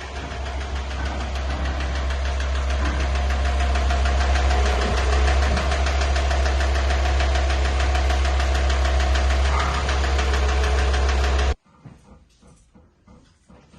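Volkswagen T5 van engine idling with a fast, even knocking, on an engine the owner says has a crankshaft problem; it is switched off and cuts out abruptly near the end.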